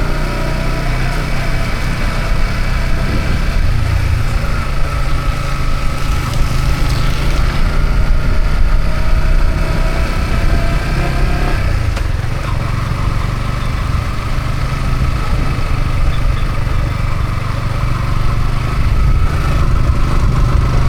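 Yamaha MT-15's single-cylinder engine running steadily, its pitch drifting a little, under a constant hiss of wind and road noise.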